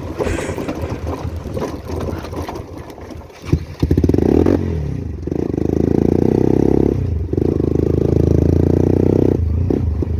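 Motorcycle engine: after a sharp clunk about three and a half seconds in, it opens up into a loud, steady run under throttle, easing off briefly twice before pulling again.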